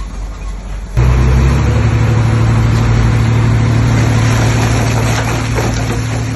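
Heavy diesel machine engine running loudly with a steady drone, cutting in abruptly about a second in.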